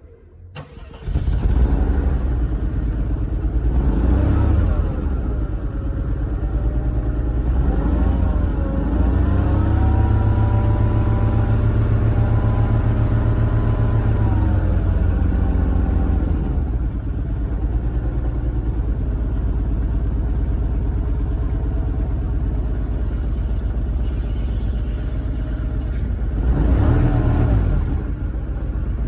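Mercedes-Benz W124 320 E straight-six petrol engine cold-starting: it catches about a second in, revs up briefly a couple of times, holds a raised fast idle for several seconds, then drops and settles to a steady idle. Another short rev comes near the end.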